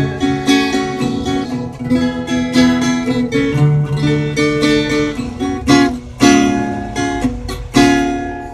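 Acoustic guitar playing an instrumental break in a dangdut song: a run of single picked notes, then two loud strummed chords in the last few seconds.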